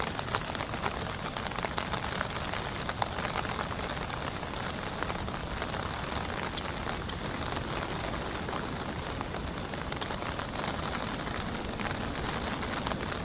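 Heavy rain falling steadily, with scattered drops ticking on a nearby surface. Over the rain, a small animal gives several short, rapid, high-pitched trills, mostly in the first half and once more near the end.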